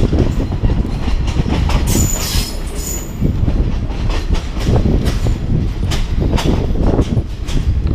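Passenger train running, heard from aboard: a steady heavy rumble with wheels knocking over the rails. A brief high wheel squeal comes about two seconds in.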